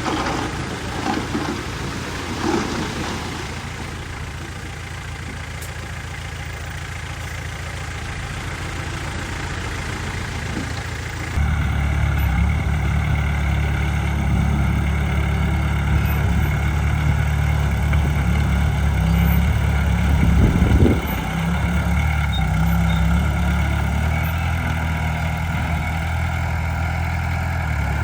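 Heavy diesel earthmoving machinery running steadily. About eleven seconds in the sound switches abruptly to a louder, deeper engine note, which swells briefly near twenty seconds.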